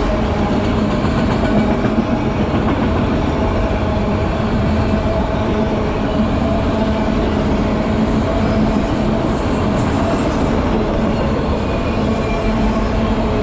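CN freight train rolling past, a steady, loud rumble of steel wheels on the rails.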